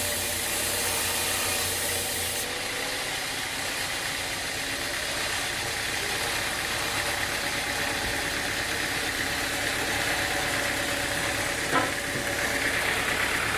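Sawmill machinery running steadily, an engine-driven drone with a constant hiss. About two and a half seconds in the sound changes as the high hiss and low hum drop away, and a single sharp knock comes near the end.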